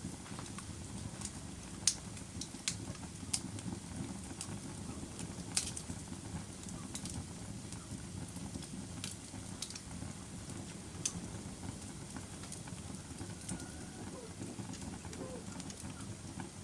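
Wood fire burning in a fireplace: a steady low rumble of flames with irregular sharp crackles and pops, the loudest about two seconds in.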